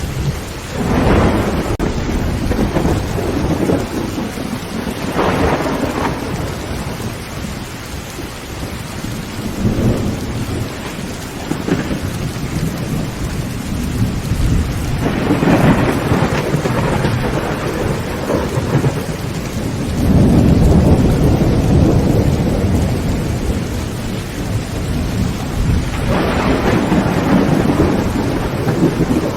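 Heavy rain pouring steadily on a tin roof, with several rolls of thunder rumbling up and fading away; the longest and loudest roll comes about two-thirds of the way through.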